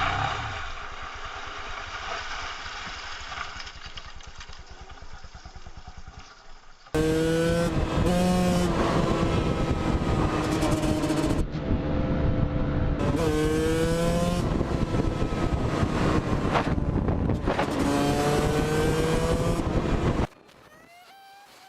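Steady, quieter engine noise, then, about seven seconds in, a louder motorcycle engine revving hard through the gears, its pitch climbing and falling back with each shift. It cuts off abruptly near the end.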